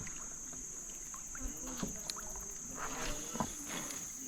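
Steady high-pitched insect chorus with a few light knocks and taps from a kayak and fishing gear.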